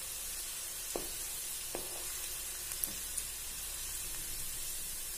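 Sliced onions sizzling steadily in hot mustard oil, with a few light knocks of a wooden spatula against the pan as they are stirred and scooped out.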